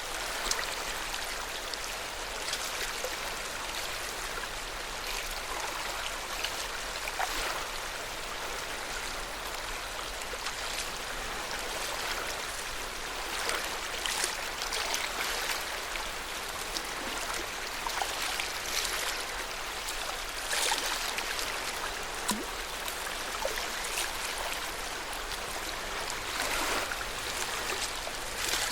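Lake Yamanaka's water lapping and splashing in small waves: a steady wash with irregular louder splashes every second or two.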